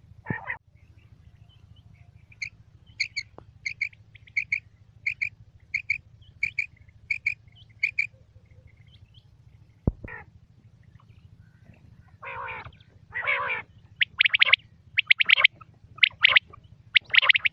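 Quail calling: a run of short, evenly spaced high chirps, then from about twelve seconds in a series of louder, harsher calls.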